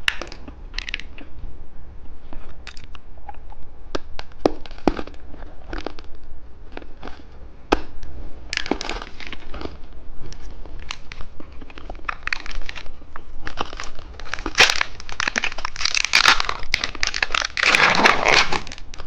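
Plastic candy wrapping being handled, crinkled and torn open, with scattered sharp clicks at first and denser, louder crinkling in the last few seconds.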